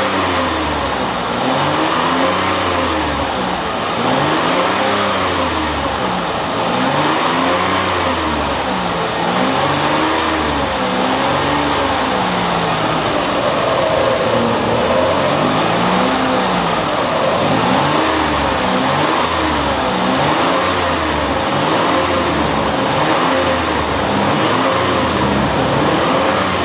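Renault Safrane car engine being revved again and again, its pitch rising and falling about once every two seconds.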